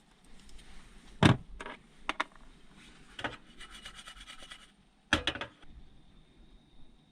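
Objects being handled at close range: a few sharp knocks and clacks, the loudest about a second in, with a second or so of fast, even ticking or rasping in the middle.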